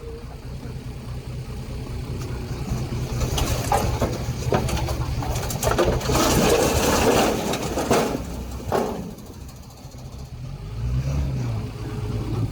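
Diesel engine of heavy earthmoving equipment running steadily. A loud, noisy clattering stretch with knocks builds up in the middle and dies away, and the engine revs up and back down briefly near the end.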